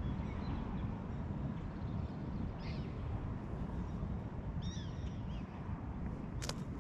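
Steady low outdoor rumble with a few faint, short, high chirping animal calls: one about two and a half seconds in and a pair near five seconds. A single sharp click comes near the end.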